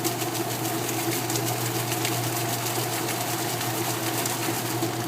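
Washing machine spinning at high speed with a steady hum and faint rattling ticks. It sounds normal, spinning faster than it did before the repair.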